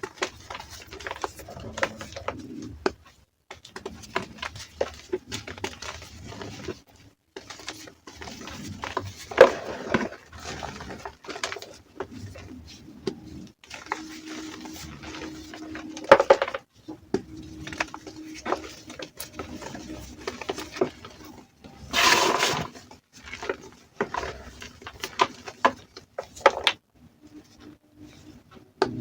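Reformed gym chalk being crushed: dense crunchy, crispy crackling with scattered sharper cracks and a louder crunch of about a second near the end.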